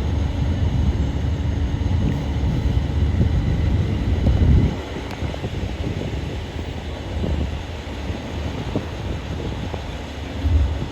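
Low rumble of road traffic mixed with wind buffeting the microphone, dropping off sharply about four and a half seconds in and swelling briefly near the end.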